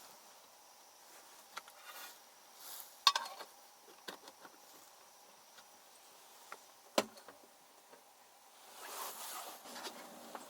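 Scattered handling noises: rustling and a few sharp clicks or knocks. The loudest click comes about three seconds in and another sharp knock about seven seconds in, with a swell of rustling near the end.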